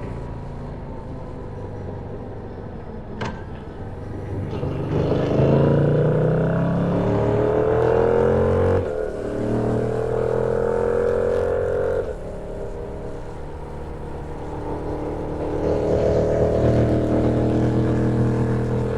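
Yamaha MT-07's parallel-twin engine accelerating under way. Its pitch climbs, drops sharply twice as the automated Y-AMT gearbox shifts up (near nine and twelve seconds in), then climbs again near the end.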